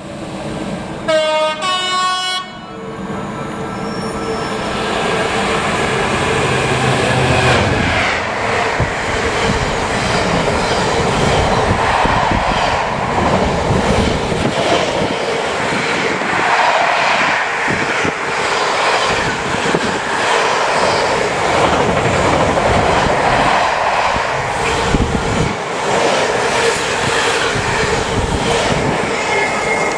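A train horn sounds briefly about a second in. Then a container freight train passes at speed close by, its wagons rumbling and clattering over the rail joints without a break.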